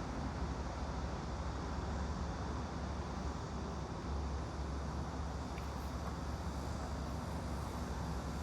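Steady background noise with a low rumble, the white-noise ambience that runs under the study session.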